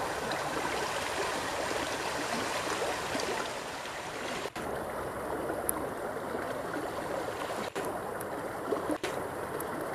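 Shallow river flowing fast over rocks: a steady rush of water, broken by a few very short dropouts.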